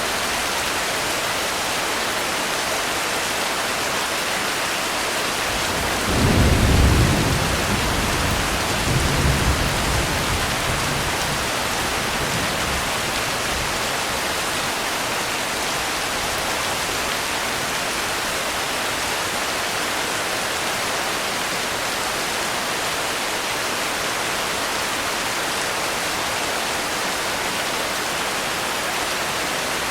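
Steady rain hiss with a low rumble of thunder about six seconds in, followed by a weaker roll a few seconds later.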